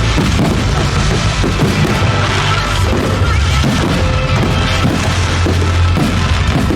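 Music with a heavy, sustained bass line, with the bangs and crackles of firework bursts over it.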